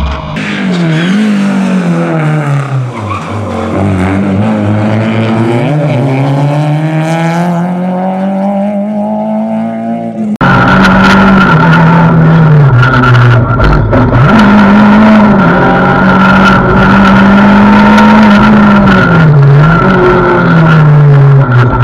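Renault Clio 2 rally car's engine at racing speed. For the first ten seconds it is heard more distantly, its note falling and climbing again as the car slows and accelerates. After a sudden cut it is loud, heard from inside the car, holding a high note with brief dips at gear changes.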